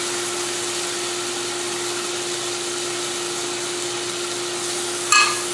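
Diced bell peppers and green onions sizzling steadily in melted butter in a stainless steel saucepan, over the steady hum of a portable induction cooktop. A short clink of a utensil or dish against the pan about five seconds in.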